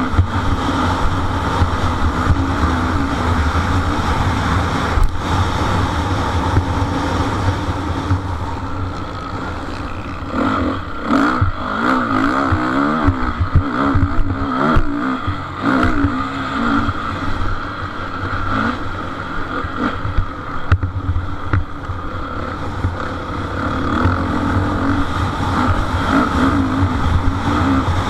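Motocross bikes racing around the track, their engines revving up and down with gear changes and throttle, fastest rises and falls about halfway through.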